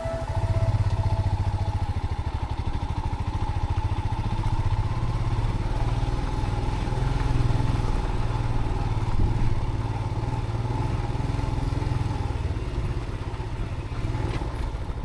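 Motorcycle engine running steadily at low speed while riding a rough dirt track.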